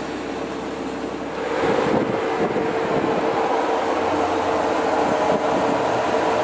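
Steady running sound of a Porsche Cayman S flat-six engine at idle, with a faint steady hum. It grows louder about a second and a half in.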